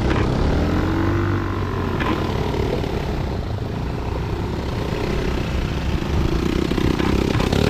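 Engine of a moving motor vehicle running steadily.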